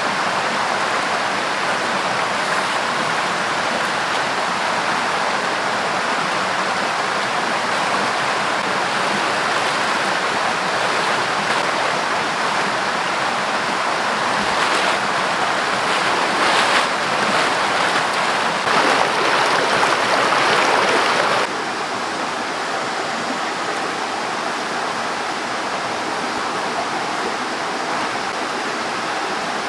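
Steady rushing of a river's flowing water. It grows louder for several seconds in the middle, then drops suddenly to a softer steady rush.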